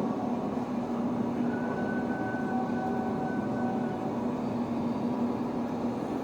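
Slant-bed CNC lathe running: a steady mechanical hum with a low held tone, and a higher whine that comes in about one and a half seconds in and fades about four seconds in.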